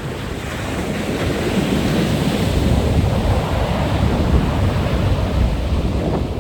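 Wind buffeting the microphone: a steady rushing noise heavy in the low rumble, growing a little louder in the first couple of seconds.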